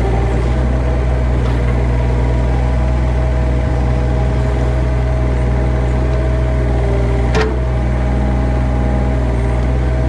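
An engine running steadily at low, idling speed, with a single sharp click about seven seconds in.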